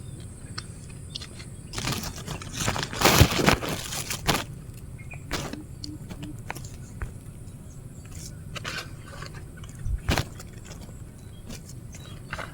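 Rustling and clattering handling noise, loudest for a couple of seconds about two seconds in. There are scattered light clicks, and a single sharp knock about ten seconds in.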